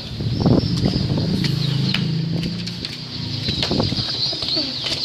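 Domestic pigeons flapping their wings in a few quick flurries as they fly down to feed, about half a second in and again near four seconds, with a low drawn-out coo in the middle and high chirping from small birds.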